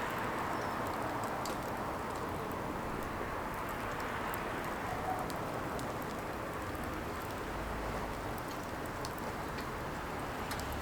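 Firewood burning: a steady hiss with scattered small crackles and pops.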